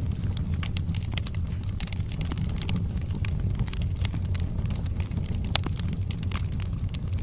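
Wood fire burning in a fireplace: a steady low roar of flames with many small crackles and pops from the logs, and one sharper snap about five and a half seconds in.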